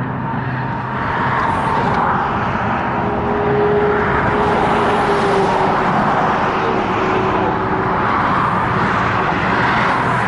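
Fast highway traffic passing close by: a continuous loud rush of tyres and engines. A steady hum rises out of it from about three seconds in and fades near eight seconds, as a vehicle goes past.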